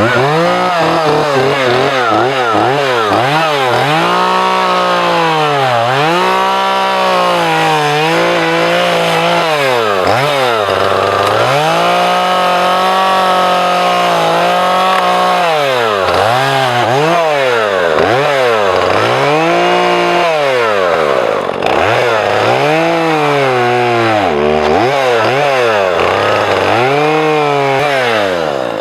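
Two-stroke chainsaw running at full throttle while cutting into a log. Its engine pitch sags and recovers every second or two as it bogs under load, with a longer steady stretch at high revs midway.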